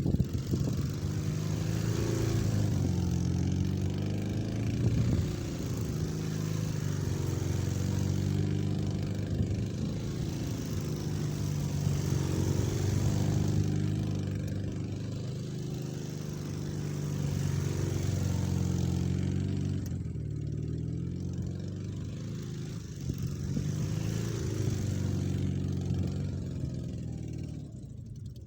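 Dnepr MT-10-36 motorcycle's flat-twin engine revving up and falling back again and again, the engine note rising and dropping every few seconds.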